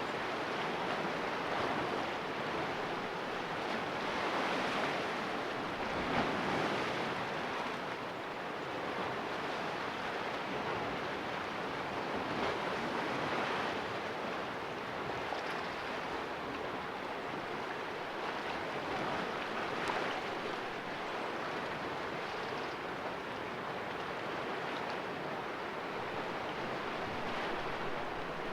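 Small sea waves washing and splashing against rocks, a steady surging wash that swells every few seconds.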